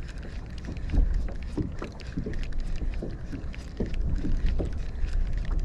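Choppy water slapping irregularly against a kayak's hull, with wind rumbling on the microphone.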